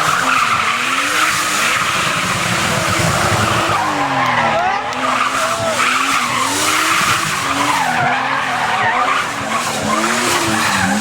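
Drift car's engine revving hard, its pitch rising and falling over and over, over continuous tyre squeal as the car slides.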